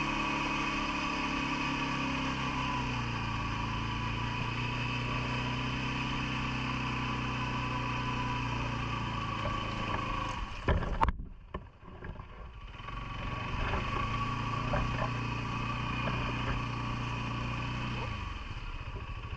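CFMoto ATV engine running at a steady speed, its note dropping to a lower pitch about three seconds in. A little past halfway there are a few sharp knocks and the sound dips briefly before the engine comes back up.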